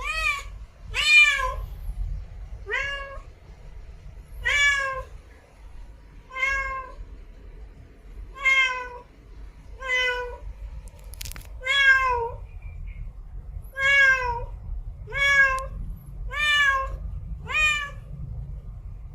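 A cat meowing over and over: about a dozen short calls spaced a second or two apart, each rising and then falling in pitch.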